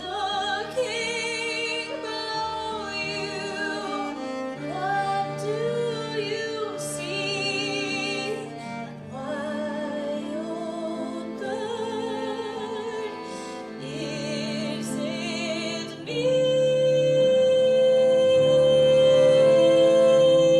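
A woman singing a song with strong vibrato over instrumental accompaniment. About three-quarters of the way through she holds one long note, and the music gets louder.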